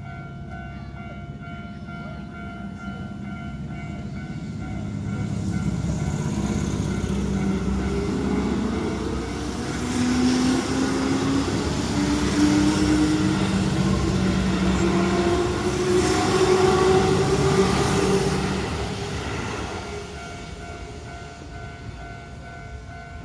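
Level-crossing alarm ringing steadily while a Keihan electric train runs over the crossing. Its traction motors whine, rising in pitch as it picks up speed. The train noise builds, is loudest from about ten to eighteen seconds in, then fades.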